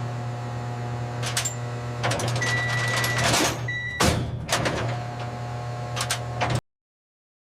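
Several sharp metallic clanks over a steady low electrical hum, with a short high electronic beep about two and a half seconds in and a shorter one soon after. The sound cuts off suddenly near the end.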